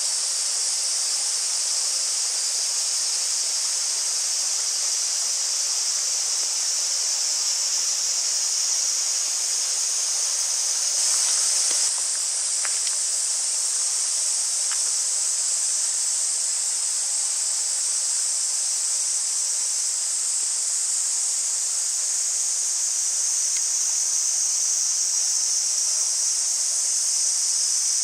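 A dense, steady, high-pitched insect chorus that does not let up, with a few faint clicks about halfway through.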